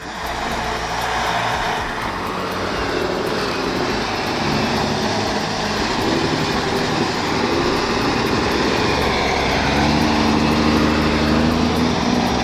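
Heavy truck's diesel engine running hard under load, with its pitch shifting up and down and growing louder in the second half.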